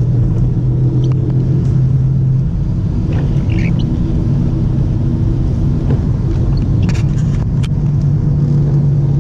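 Car engine and road noise heard from inside the cabin while driving: a steady low drone. The engine note eases off about two and a half seconds in and picks up again near the end, with a few faint clicks in between.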